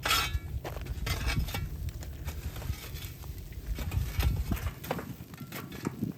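Bamboo bonfire crackling, with irregular sharp snaps and pops. Wind buffets the microphone as a low rumble that dies away about three-quarters of the way through.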